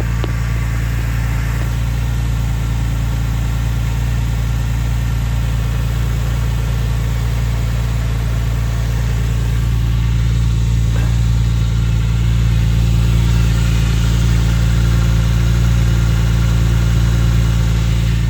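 Porsche 996 Carrera 2's water-cooled flat-six running at its raised cold-start idle, breathing through a Fabspeed exhaust. The idle is steady and grows a little louder about halfway through.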